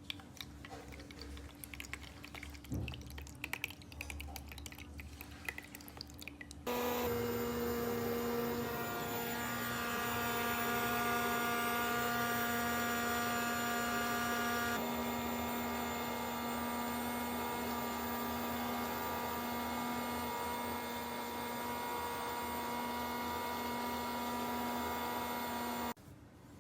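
A few faint clicks of handling, then a steady hum made of several held tones. It starts suddenly, runs for about twenty seconds with a slight change partway, and cuts off suddenly.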